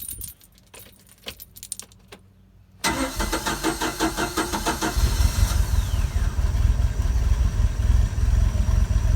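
Volvo Penta 3.0 inline-four marine engine being started: a few faint clicks, then about three seconds in the starter cranks it rhythmically for about two seconds, and the engine catches and keeps running. It starts and runs after its carburetor's rust-seized accelerator pump linkage was freed.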